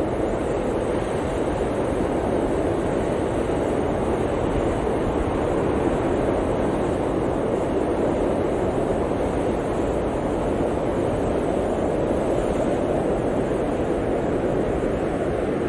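Blizzard wind blowing steadily, a dense rushing noise with a slight swell about midway.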